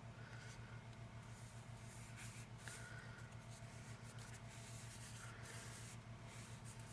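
Faint scratchy rubbing of paper and cardstock as a glued designer paper layer is worked onto a card front, over a steady low electrical hum.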